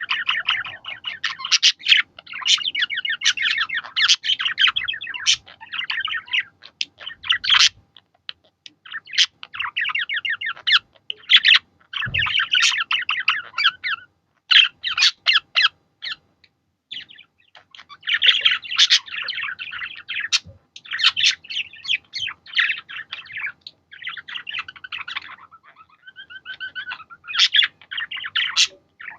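Budgerigars chattering and warbling in fast runs of chirps, in bouts broken by short pauses.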